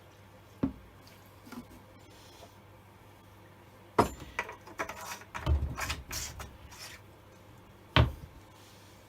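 Hard objects being handled on a work surface: a sharp knock about half a second in, a loud knock at four seconds followed by about three seconds of irregular knocks and rattles, then one more sharp knock near the end.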